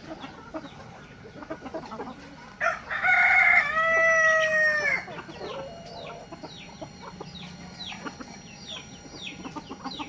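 Village rooster crowing once, a long call starting about two and a half seconds in and lasting about two seconds. Afterwards a run of short, high, falling chirps repeats several times a second.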